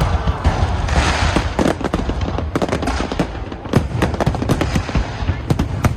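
Fireworks display: a rapid, irregular string of sharp cracks and bangs over a steady low rumble of bursting shells, with a hissing stretch about a second in.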